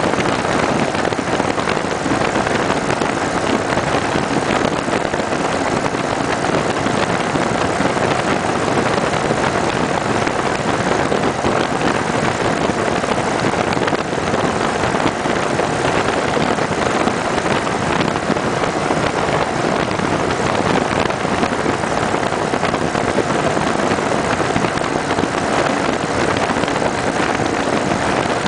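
Steady wind rush on the microphone over the 2010 Kawasaki Vulcan 900 Custom SE's V-twin engine running at an even cruising speed.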